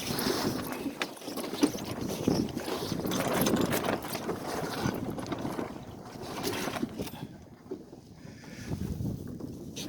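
Wind and water noise aboard a small sailboat going about through a tack in gusty wind, rising and falling, with a few sharp knocks and one loud knock less than two seconds in.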